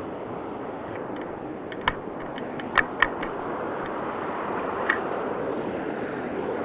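Steady rush of a shallow mountain stream, with a few sharp clicks: one about two seconds in, two close together near three seconds, and one near five seconds.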